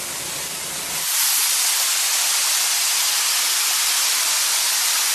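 Steam hissing from a leak in an underground steam pipe: a steady hiss that gets louder about a second in.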